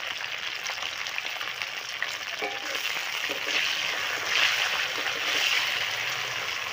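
Cut okra sizzling in hot oil in a wok, a steady hiss that grows louder about halfway through as the okra is stirred and turned with a metal spatula.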